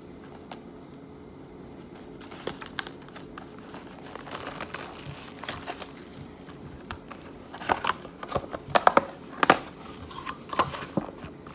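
Plastic wrapping on a hobby box of trading cards being crinkled and torn open. It starts with soft rustling and builds to a run of sharp crackles and rips about two-thirds of the way in.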